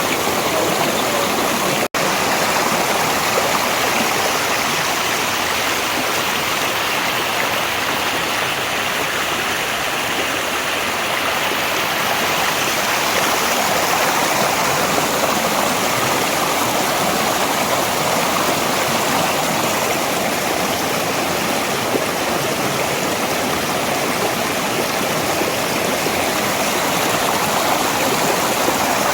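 Valley stream flowing, a steady, continuous rush of water that briefly cuts out for an instant about two seconds in.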